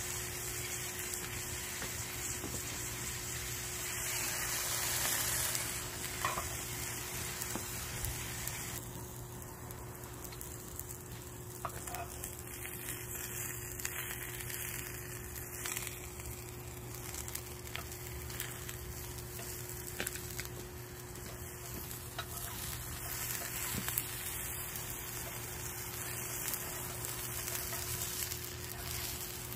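Coiled gopchang (intestines) sizzling steadily in a frying pan over a wood fire, with a few scattered clicks and a faint steady hum underneath.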